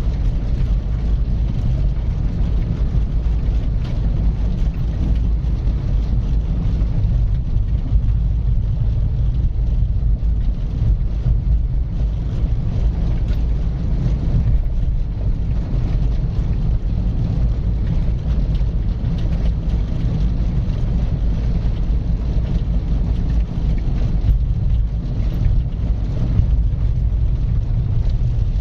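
Car driving at a steady speed: an even low rumble of the engine and tyres on the road, with no change in pace.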